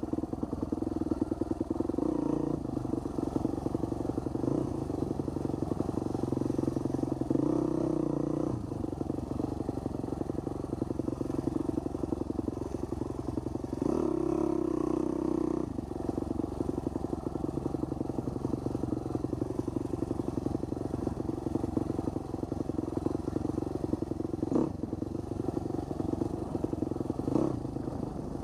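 Husqvarna 250 single-cylinder dirt bike engine running at a steady, moderate throttle while riding. The note brightens briefly twice, about a quarter and about halfway through, as the throttle is opened a little.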